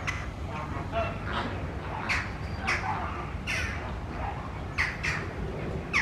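Birds in a colony calling: short, downward-sliding calls repeated every half second to a second, over a steady low background rumble.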